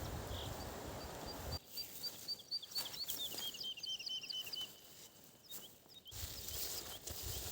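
A songbird singing a run of short, quickly repeated chirps that step down in pitch partway through. A steady low rushing noise fills the opening second and a half and comes back near the end.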